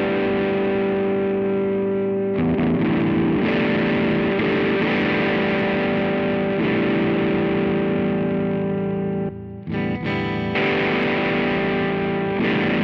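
Electric guitar played through a BOSS OD-2R overdrive pedal: distorted chords held and left ringing, changing a few times, with a short break a little past the middle.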